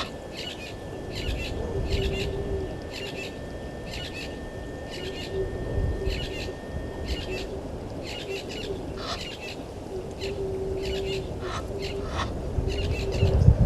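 Wild birdsong: a bird repeating a short high chirp about twice a second, with a lower droning call coming and going beneath it. A low rumble swells near the end.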